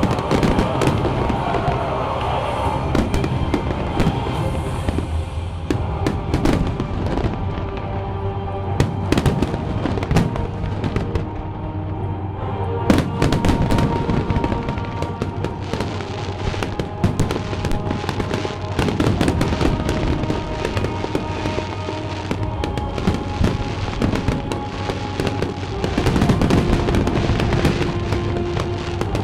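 Aerial fireworks bursting one after another, a dense run of bangs and crackles with no let-up, over music playing alongside.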